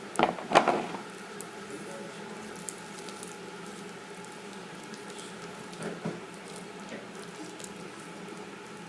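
Sticky crunchy slime mixed with cut-up straw pieces being squished and kneaded by hand: soft squelches and small crackles, loudest in the first second.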